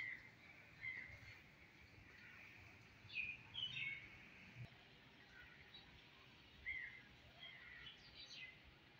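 Small birds chirping: short chirps scattered irregularly, a few every couple of seconds, over a faint steady background hiss.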